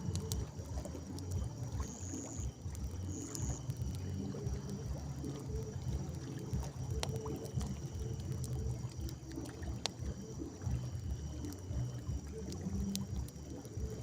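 Campfire burning with scattered sharp crackles and pops, over a low, uneven rumble and a steady high trill of night insects.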